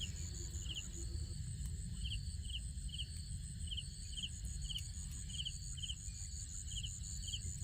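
Crickets and other insects calling: a high pulsing trill, with short chirps repeating about twice a second, over a low rumble.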